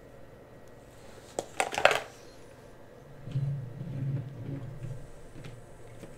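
Close-miked ASMR handling sounds. A quick cluster of sharp clicks and crackles comes about a second and a half in, then a soft, low, irregular rubbing fades out after a couple of seconds.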